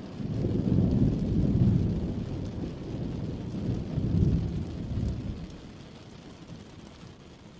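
A thunder rumble over steady rain: it rolls in with several deep swells and fades away over the last couple of seconds.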